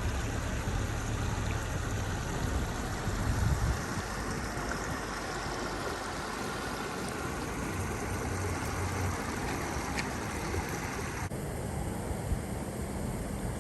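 Steady rushing of floodwater over a street, with a low rumble underneath that swells and fades; the higher hiss drops away suddenly near the end.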